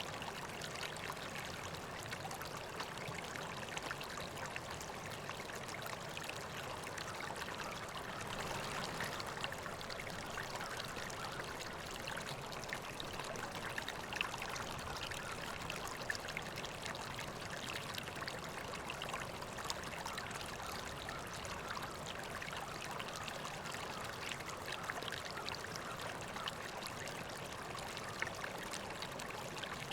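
River water flowing steadily, a continuous babbling trickle with many small splashes.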